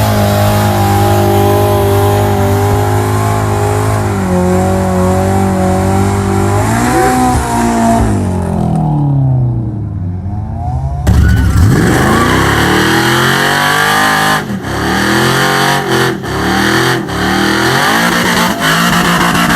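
Car engine held at high revs, then the revs fall away. About 11 seconds in, an engine is revved hard again in repeated up-and-down blips.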